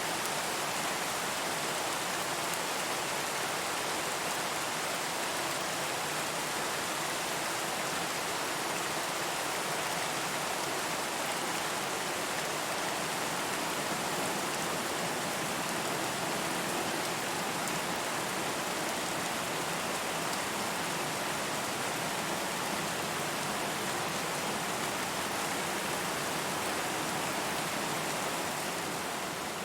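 Steady rain falling, an even hiss of many drops with no thunder or other sounds. It eases a little near the end.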